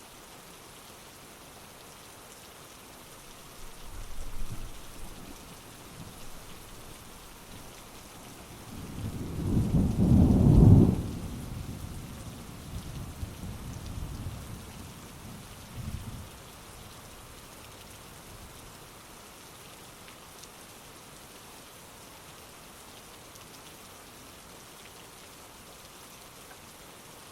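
Steady heavy rain with a roll of thunder: a first low rumble about four seconds in, a loud peak about ten seconds in, and smaller rumbles dying away after about sixteen seconds, leaving only the rain.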